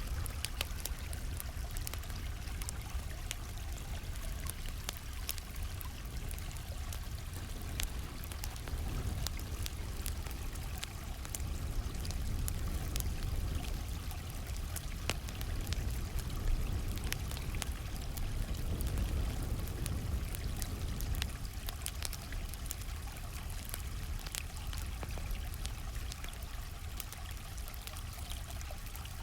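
A gently flowing stream running steadily, with a campfire crackling over it in frequent, irregular sharp pops.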